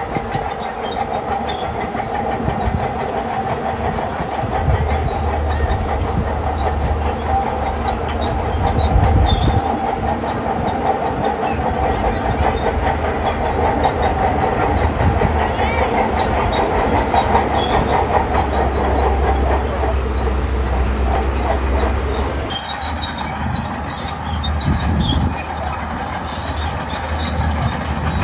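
Shantui crawler bulldozer working: its diesel engine drones under load while the steel tracks clatter steadily, and the low engine drone strengthens and eases as it pushes.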